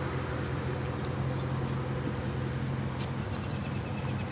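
A vehicle engine idling with a steady low hum, and a few faint ticks about three seconds in.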